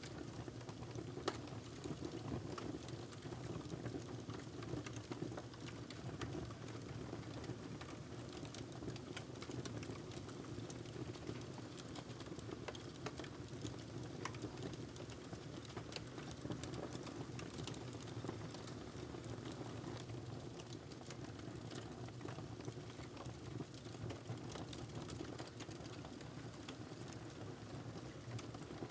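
Wood fire crackling in a fireplace: irregular sharp pops and crackles over a steady low rush, with one louder pop about a second in.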